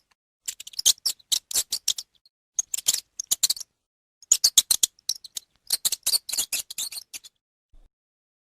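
An animal's call: three bouts of rapid, high-pitched clicking chirps, the last and longest running about three seconds.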